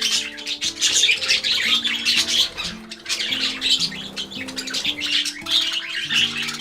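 Budgerigars chirping and chattering continuously over background music with slow, held notes.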